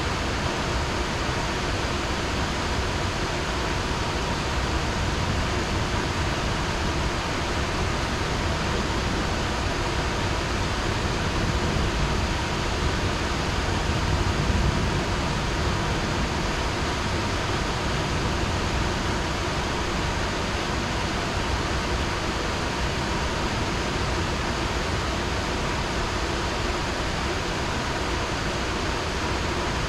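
Heavy rain falling steadily, with a low rumble swelling briefly about halfway through.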